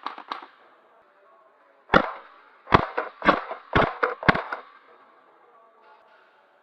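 Airsoft gun shots: a few quicker, fainter cracks at the start, then five loud, sharp shots at about half-second intervals from around two seconds in, each ringing briefly in a small indoor space.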